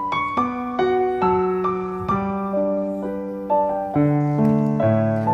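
Background piano music: a gentle melody of struck notes that ring and fade, with lower bass notes joining about four seconds in.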